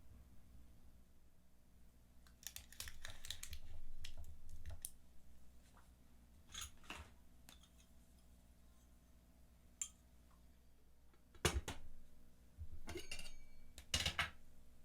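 Hands handling solid fuel and small metal camp-stove parts: clusters of light clicks and rattles, with a sharper knock about three-quarters of the way through.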